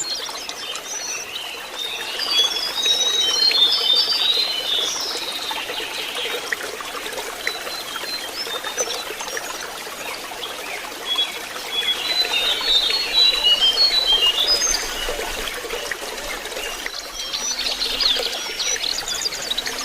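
Lesser shortwing song: bouts of quick, high twittering notes, three times, over a steady trickle of running water.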